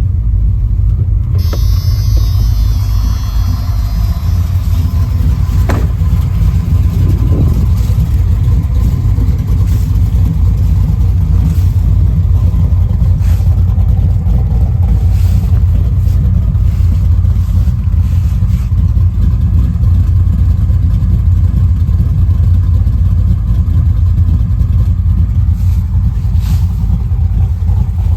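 A 410 cubic inch Magnum stroker V8 running steadily through 3-inch dual exhaust with XR1 mufflers, a continuous low rumble.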